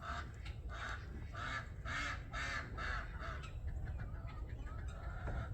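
Farmyard fowl giving a run of short, harsh, repeated calls, about two a second, that thin out after about three and a half seconds.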